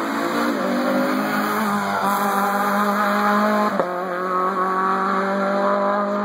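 Rally car engine running hard as the car drives past, its engine note falling over the first couple of seconds and then holding steady, with a single sharp crack about four seconds in.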